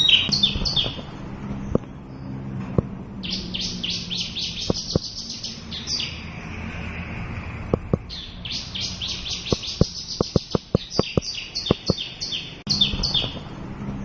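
Javan bush lark singing: long runs of rapid, short, high chirping notes, broken by brief pauses. Sharp clicks are scattered through the song, with a quick series of them about ten seconds in.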